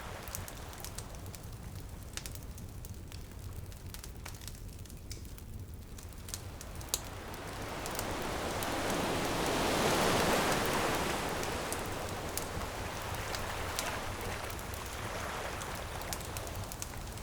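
Wood fire crackling with scattered sharp pops over the steady low rumble of surf. A wave rushes in, swelling to its loudest about ten seconds in and then washing back out.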